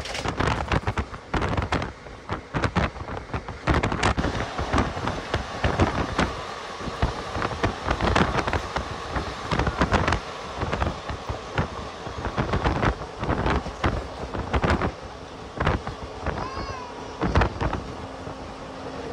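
Passenger train coach running on the line: rapid, irregular clattering and knocking of wheels and couplings over the track, over a rushing noise of wind on the microphone. A brief wavering tone sounds near the end.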